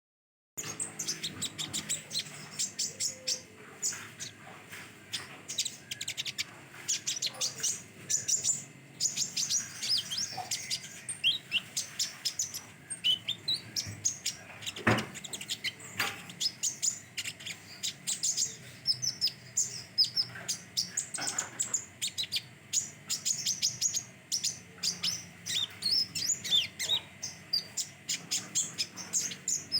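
A young kolibri ninja (Van Hasselt's sunbird), still in green plumage, singing a fast, continuous run of high, thin chirps and twitters with only brief pauses. A sharp knock comes about halfway through.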